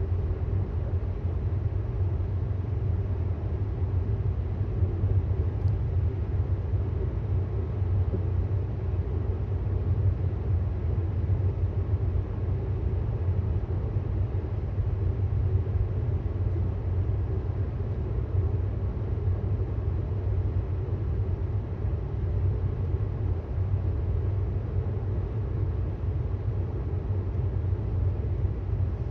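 Steady low road and tyre rumble inside the cabin of a 2018 Tesla Model S 75D, an electric car, as it drives along. The sound stays even throughout, with no engine note.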